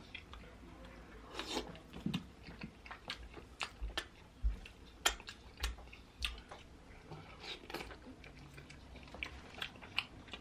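A person chewing and biting into saucy seafood-boil seafood close to the microphone: wet mouth sounds with many short, sharp clicks scattered throughout.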